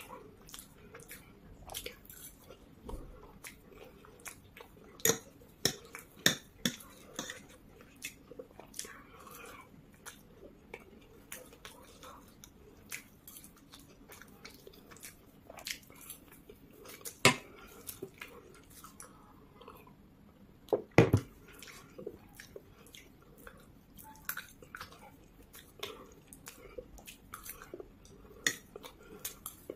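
Close-miked chewing of Maggi instant noodles, with irregular sharp clicks and smacks throughout and a few louder ones, the loudest about 21 seconds in.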